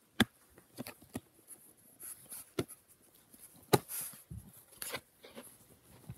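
A dog worrying at a cushion's tag: a handful of irregular sharp clicks and knocks with soft rustling between, the loudest a little past the middle.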